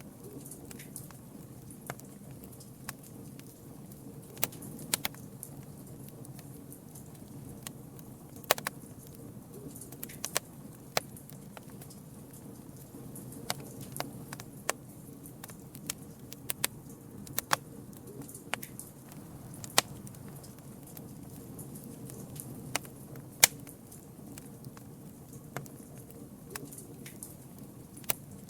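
Wood campfire crackling: irregular sharp snaps and pops over a steady low rumble of burning, with a few much louder pops scattered through.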